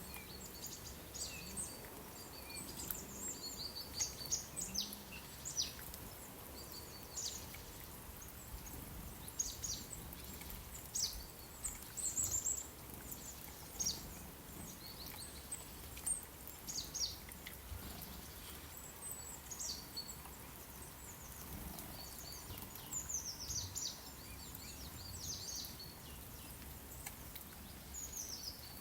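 Small birds chirping and singing in short, high, mostly falling notes, scattered throughout, over a faint steady hiss of outdoor ambience.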